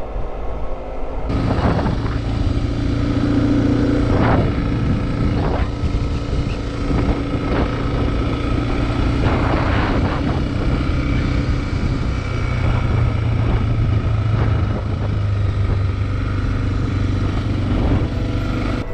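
Motorcycle engine running at a steady cruise, with wind and road noise rushing over the microphone.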